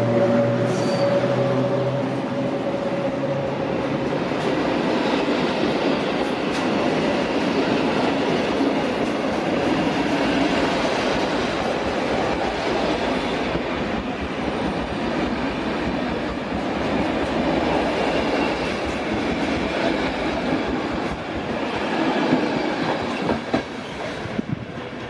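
A train running through a station, its wheels clattering over the rail joints in a long, steady rush of noise. A humming tone at the start fades out over the first couple of seconds.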